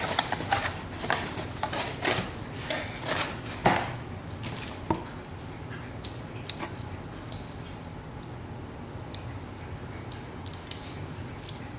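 Hands opening a kettle's packaging box and handling the packing inside: a run of quick clicks, taps and rustles for the first four seconds or so, then scattered light taps.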